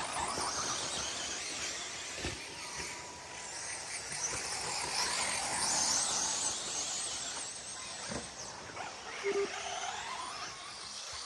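Several electric RC short course trucks racing, their motors whining up and down in pitch as they accelerate and brake around the track. A few sharp knocks, about two, eight and nine seconds in, come from landings or impacts.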